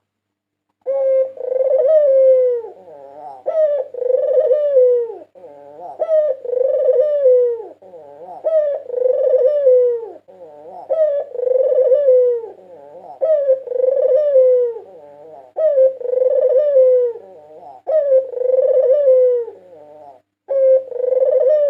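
White Barbary dove (puter putih) cooing: a rolling coo phrase that rises and then falls, repeated about every two seconds, around ten times, with a brief break near the end.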